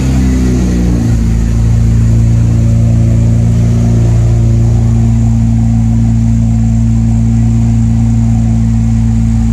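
Infiniti Q50's V6 idling high just after a cold start, through a freshly fitted lower downpipe and resonated exhaust. The idle eases down a little in the first second, then holds a steady drone that is not loud, which the owner credits to the resonators.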